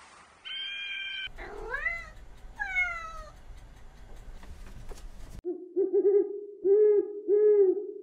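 A domestic cat meowing twice, the first meow rising then falling and the second falling, then an owl hooting in a run of low notes, the last two longer and the loudest. Near the start there is a brief, steady whistle-like call.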